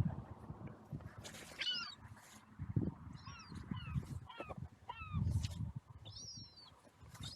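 Seagulls calling: many short, high calls that glide down in pitch, overlapping one another, over a low rumble of wind buffeting the microphone.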